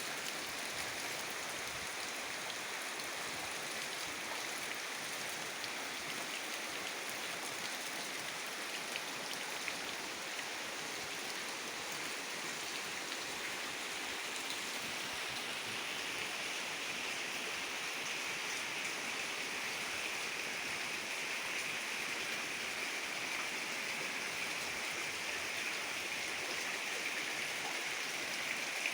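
Heavy rain falling steadily, a continuous hiss of water that grows slightly louder and brighter in the second half.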